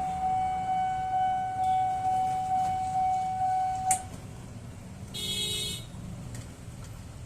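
Level-crossing warning alarm sounding a steady electronic tone, cut off with a click about four seconds in. A short, bright beep-like tone follows about a second later.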